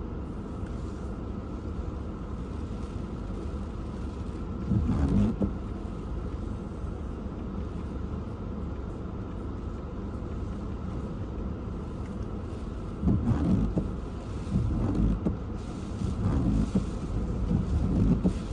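Hurricane-force wind buffeting a car, heard from inside the cabin. A steady low rumble, with a strong gust about five seconds in and several more in the last third.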